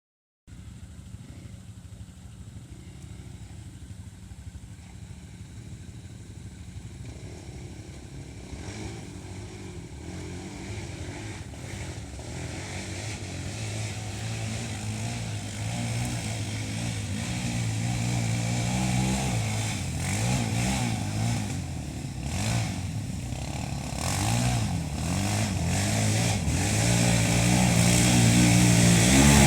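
Motorcycle engine running, growing steadily louder, its pitch rising and falling with the throttle.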